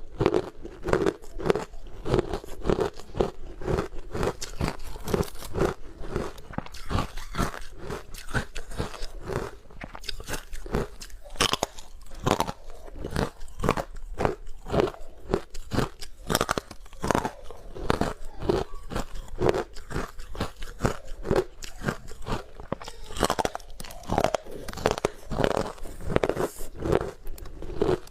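Close-miked biting and chewing of hard frozen ice, a rapid run of sharp, loud crunches.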